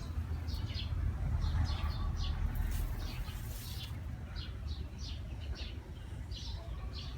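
Small birds chirping repeatedly in short high notes, about two or three a second, over a steady low rumble, with a brief hiss about three seconds in.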